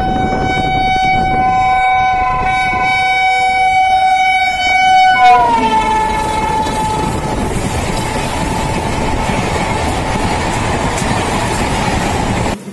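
Indian Railways WAP1 electric locomotive sounding a long horn of several tones as it approaches. The pitch drops about five seconds in as it passes. Then comes the steady rush of its passenger coaches running by.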